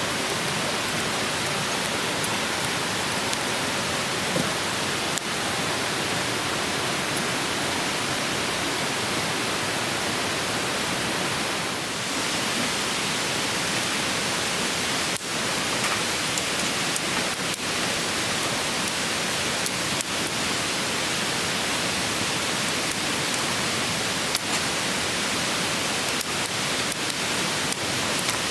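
Steady rushing of a stream's flowing water, with a few sharp clicks scattered through it.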